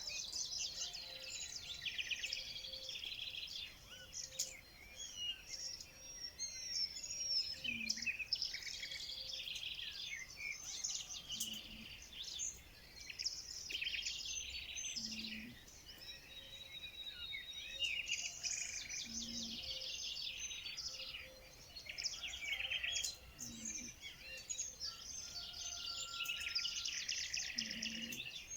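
A chorus of small birds chirping and trilling, many calls overlapping in quick succession, with a short low note repeating every few seconds underneath.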